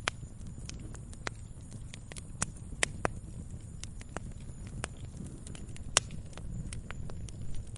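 Campfire crackling: irregular sharp pops and snaps of burning wood over a low steady rumble, with the loudest pops about three seconds in and again about six seconds in.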